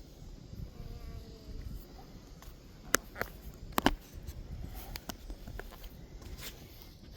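Low wind rumble on the microphone, with a few sharp clicks and knocks clustered about three to four seconds in.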